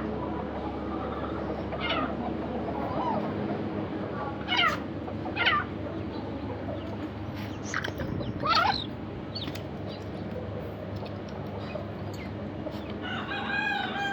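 Chickens calling: a series of short, sharply falling calls, then a longer held crow beginning near the end.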